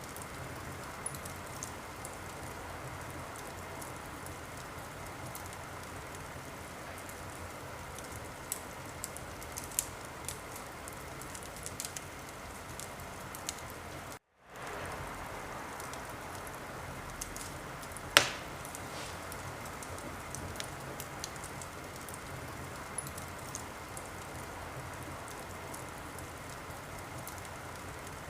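Wood fire burning in a fireplace: a steady hiss with scattered small crackles and pops, and one loud sharp pop about 18 seconds in. The sound cuts out completely for a moment a little before the middle.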